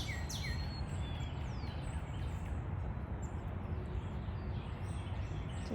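Wild birds chirping over a steady outdoor background noise: a quick run of falling chirps right at the start, then a few faint scattered calls.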